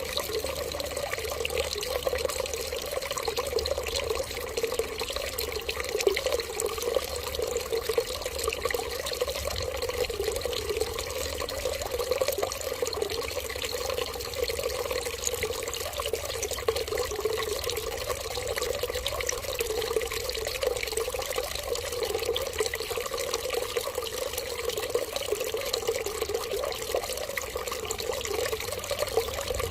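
Water running steadily, like a flowing tap, with an even hiss that never stops or changes.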